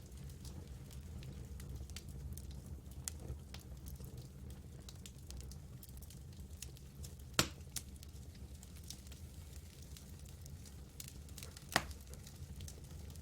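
Wood campfire burning, crackling with a scatter of small snaps over a steady low rumble. Two louder pops come a little past halfway and near the end.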